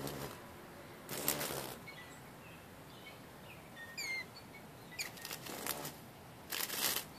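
Small birds giving thin, high chirps, with one steep falling call note about four seconds in, between several brief rustling bursts.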